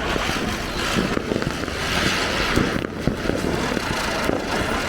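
Firecrackers fizzing with a steady hiss, peppered with many small crackling pops.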